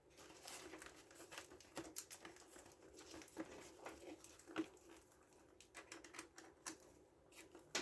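Faint scattered clicks and light rattling of small screws being picked through and handled, over a faint steady hum.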